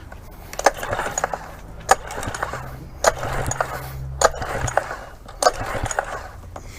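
Single-cylinder Yamaha outboard cranked over five times with its pull-start cord, plug out and compression gauge fitted: each pull a sharp clack followed by a brief whirr, about one pull a second. This is a compression test, and the gauge reads a consistent 85 psi, which the owner takes to be normal for this engine.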